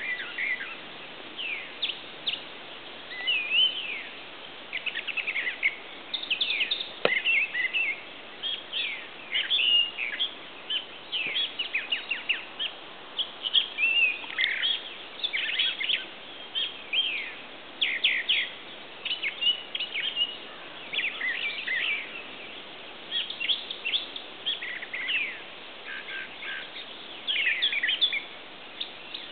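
Several songbirds singing and calling at once, with quick chirps and short trills following one another with hardly a pause, over a steady hiss.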